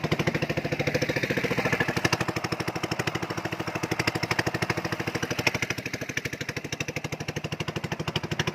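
Small fishing boat's engine running steadily while under way, a fast even chugging pulse.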